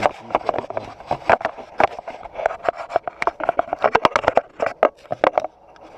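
Irregular clicks and knocks of things being handled, many in quick succession.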